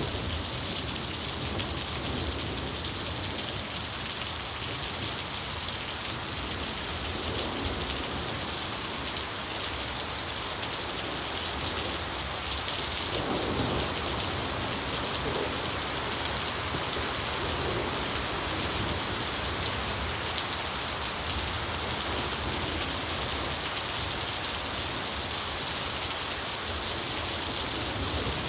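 Steady heavy rain, an even hiss, with a low rumble of thunder underneath that swells slightly about halfway through.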